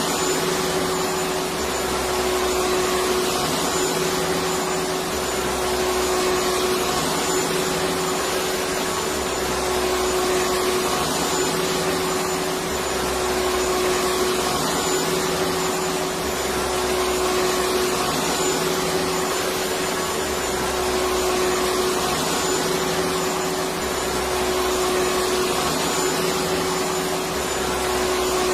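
Electric vacuum cleaner running steadily, a continuous whooshing hum with a steady whine and a low rumble that pulses about every couple of seconds.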